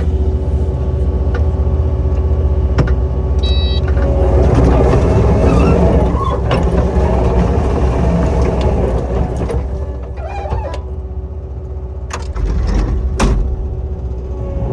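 Skid steer engine running steadily with a deep low drone, with a few sharp knocks and clanks, the loudest about a second from the end.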